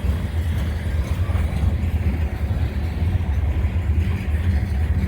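Loaded grain hopper cars of a freight train rolling past: a steady low rumble of steel wheels on the rails.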